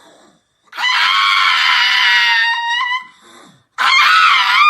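A dog's long, high-pitched screaming cry, held for about two seconds, then a second cry near the end that wavers up and down in pitch.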